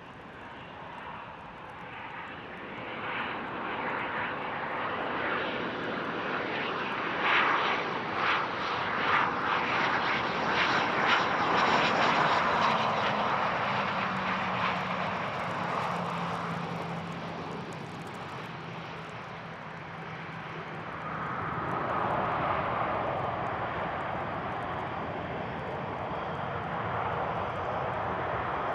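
Business jet landing on a wet runway: engine noise builds to a peak as it passes, with a low tone falling in pitch, then swells again over the last several seconds.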